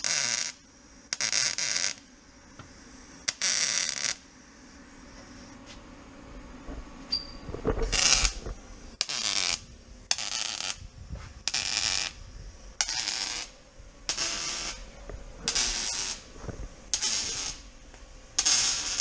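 Welder putting short welds on a car's exhaust pipework, each burst a hiss of half a second to a second. There are three bursts near the start, a pause, then a steady run of bursts about every second and a half.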